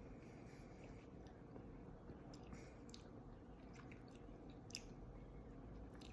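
Faint chewing, with a few short soft mouth clicks; the sharpest comes near the end.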